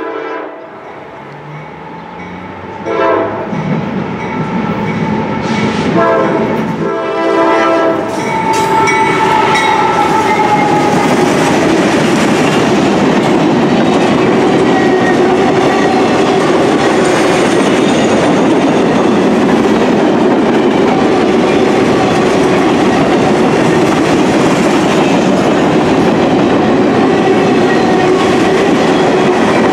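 Norfolk Southern GE AC44C6M diesel locomotive sounding its air horn in several blasts over the first eight seconds as it nears a grade crossing. Then the locomotive passes and a long string of freight cars rolls by with steady, continuous wheel-on-rail clatter.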